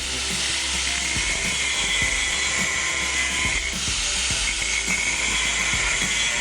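A steel pipe end being cut along a marked circle: a steady, even hissing cut with a fine crackle, running without a break.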